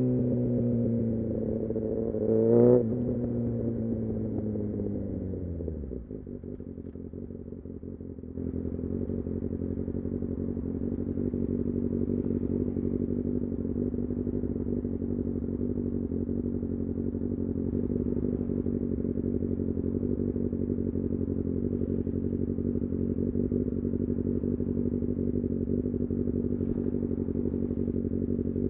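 Kawasaki Ninja ZX-6R inline-four engine running at a steady, even pitch from about eight seconds in. Before that, a pitched sound falls away and dies out around six seconds, followed by a short quieter gap.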